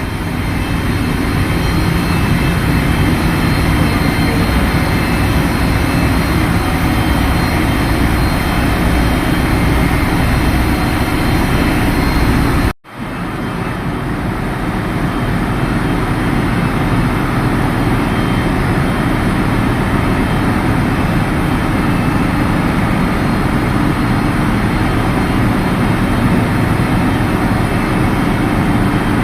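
Ship's engine room machinery running with a loud, steady din, heaviest in the low range. It cuts out briefly about halfway through, then carries on unchanged.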